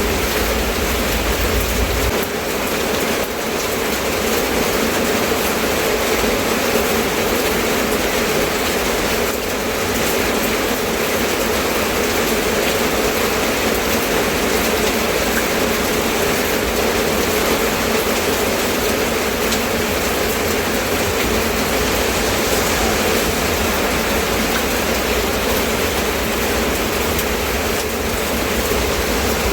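Steady rain falling, an even hiss with no breaks. A low rumble underneath fades out about two seconds in.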